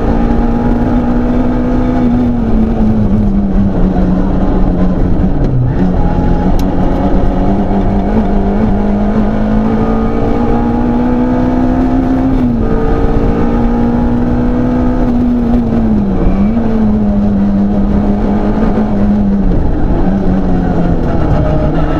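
Peugeot 106 Rallye's four-cylinder engine heard from inside the rally car, held at high revs under full throttle with about five brief dips in revs where the driver lifts or changes gear, mixed with road and tyre noise.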